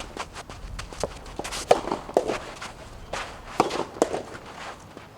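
A string of irregular sharp knocks on a soft tennis court: hits of the hollow rubber soft tennis ball, some ringing briefly, mixed with players' footfalls.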